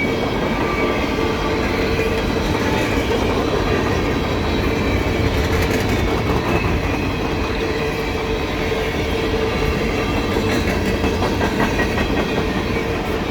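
CSX empty coal train's cars rolling past steadily on the rails, with a steady tone over the rolling noise.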